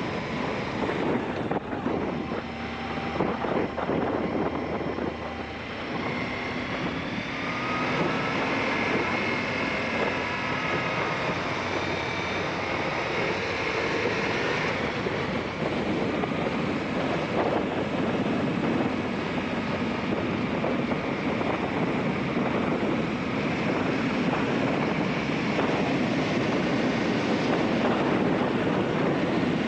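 Aprilia Shiver 750's V-twin engine running as the motorcycle is ridden, its note shifting with the throttle, under heavy wind noise on the helmet camera's microphone.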